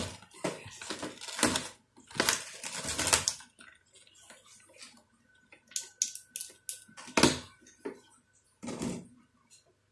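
Small plastic toy parts and screws clicking and rattling as they are handled. A dense run of clatter comes first, then scattered sharp taps, the loudest about seven seconds in.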